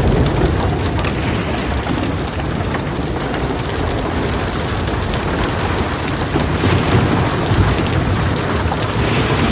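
Heavy rain falling steadily on a metal roof, full of small drop ticks, over a continuous low rumble of thunder.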